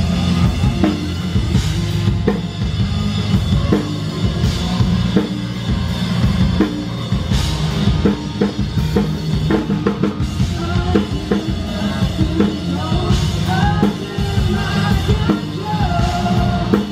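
A live rock band playing on stage: the drum kit keeps a steady beat with kick and snare, and a melody comes in over it in the second half.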